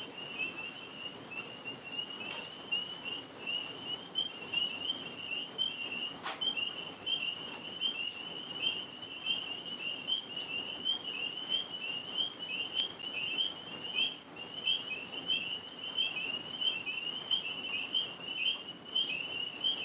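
Chorus of tree frogs calling at night: a dense, unbroken stream of high, rapid chirps.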